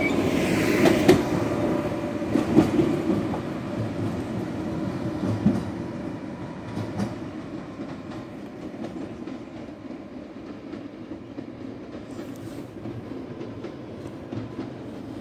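Electric multiple-unit passenger train pulling away over station pointwork, its wheels clacking over rail joints several times in the first few seconds, the sound fading steadily as it moves off.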